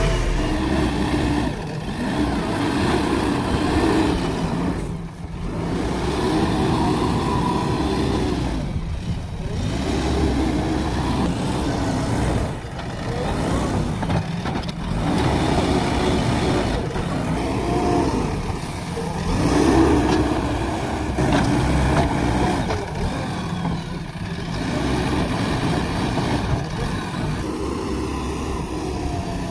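JCB backhoe loader's diesel engine running under load, revving up and easing off every few seconds as the machine works.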